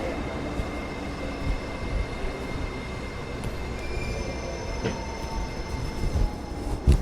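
Sound inside a Japanese train carriage: a steady low noise with thin high squealing tones, the higher ones growing stronger about four seconds in, and a few dull knocks, the loudest just before the end.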